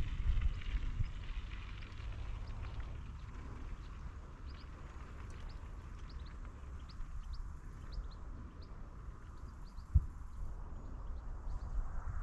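Outdoor ambience with wind rumbling on the microphone and a scatter of short high chirps, with a single sharp thump about ten seconds in.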